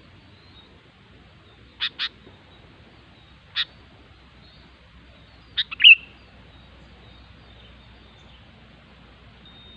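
Sooty-headed bulbul calling in short, clear notes: a quick pair about two seconds in, a single note a little later, then a few notes together around six seconds in, the last one the loudest.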